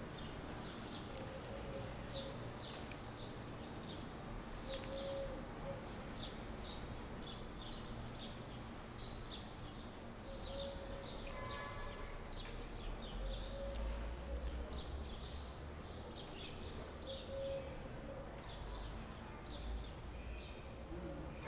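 Small birds chirping in quick, repeated short calls over steady outdoor background noise, with a low rumble swelling about two-thirds of the way through.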